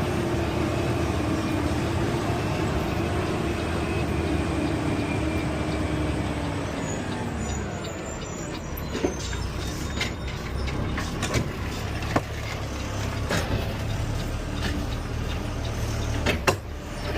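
Peterbilt 520 CNG garbage truck running, with a whine that slowly falls in pitch over the first several seconds as it eases off. It is followed by a scattering of sharp clicks and knocks in the second half.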